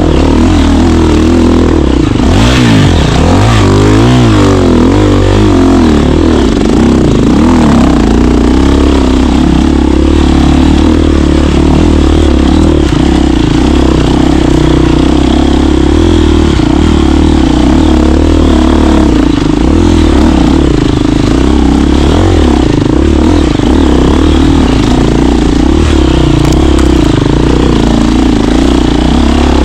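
KTM 350 dirt bike's single-cylinder four-stroke engine running under way, the revs rising and falling quickly a few seconds in, then holding steadier.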